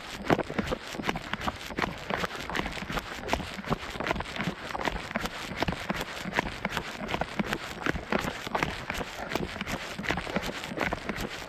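A runner's footfalls on a mountain trail, a quick, steady rhythm of short thuds.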